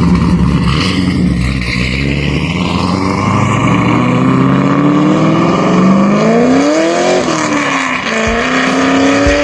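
Car engine heard through a performance exhaust, running steadily, then climbing in pitch for about three seconds, dropping sharply, and climbing again near the end, like accelerating through a gear change.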